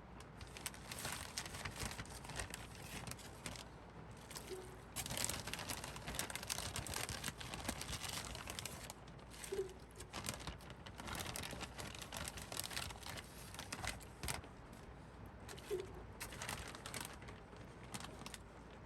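Objects being handled at close range: irregular crinkling and light clinking.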